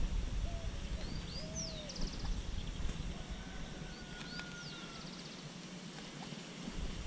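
Wild birds calling: sweeping whistles with short rapid trills, in two bouts about three seconds apart, over a steady low outdoor rumble.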